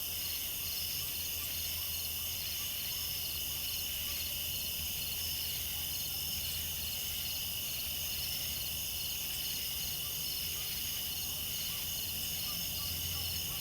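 Steady chorus of crickets and other insects, with an evenly repeating pulsed chirp, over a low steady hum.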